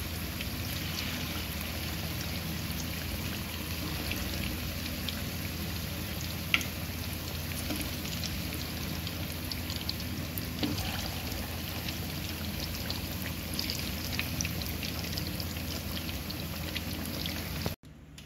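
Flour-coated chicken pieces frying in hot oil: a steady sizzle with scattered crackles and pops, and a sharper click about six and a half seconds in. The sound cuts off abruptly near the end.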